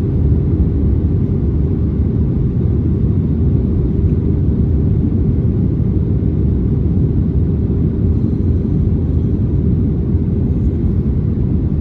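Steady low cabin rumble of an Airbus A320neo in descent, engine and airflow noise heard from inside the cabin.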